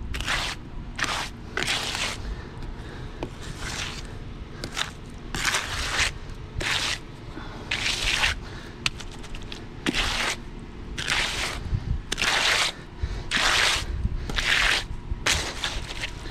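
Repeated gritty scraping strokes of a hand tool working through coarse material, coming roughly once a second.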